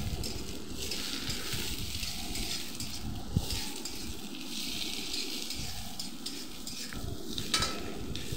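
Onion, garlic and green capsicum frying in oil in a kadai, a light sizzle under the scrape of a spatula stirring them, with a sharp clack of the spatula on the pan about three seconds in and again near the end.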